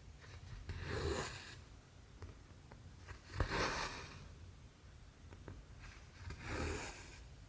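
Cotton embroidery thread pulled through cross stitch fabric three times, each a short zipping swish about half a second long, spaced about three seconds apart. The middle pull starts with a sharp click as the needle goes through the fabric, and faint small ticks come between the pulls.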